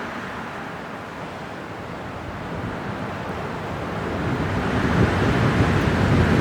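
Winter wind blowing in a steady rush that swells into a stronger low gust over the last couple of seconds.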